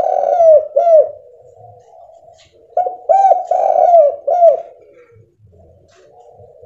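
Spotted dove (tekukur) cooing. It gives two loud phrases of several coos each, one at the start and one about three seconds in, with softer, steadier cooing between them.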